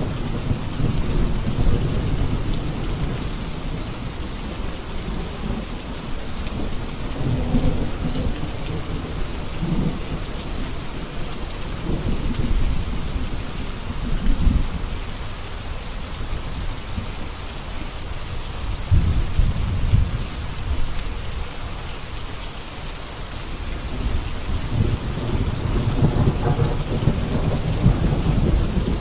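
Steady rain during a thunderstorm, with low rolls of thunder swelling and fading several times, the strongest near the end.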